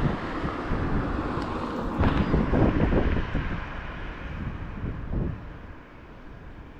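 Typhoon wind buffeting the microphone in heavy gusts, a rumbling rush that eases off over the last few seconds.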